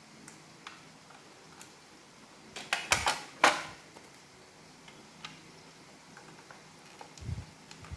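Plastic parts of a robot vacuum being handled and fitted together by hand: scattered light clicks, a short burst of louder clicking clatter about three seconds in, and a dull knock near the end.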